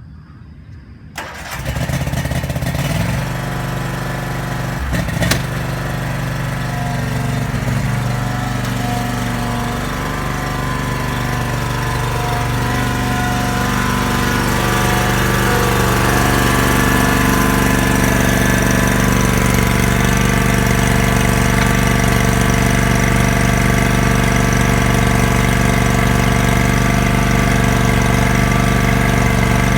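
Exmark stand-on mower's engine starting about a second in and then running, its note climbing over the next dozen seconds before settling steady.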